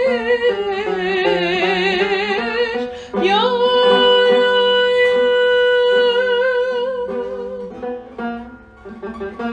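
A woman singing a long, ornamented melisma in a Turkish art song over a plucked-string accompaniment: wavering vibrato at first, then a long steady held note from about three seconds in, easing off near the end.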